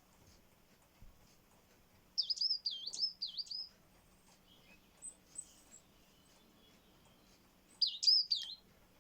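Coal tit calling: a quick phrase of three high notes, each dipping in pitch and rising again, about two seconds in, then a few faint high notes, and another short phrase of high dipping notes near the end.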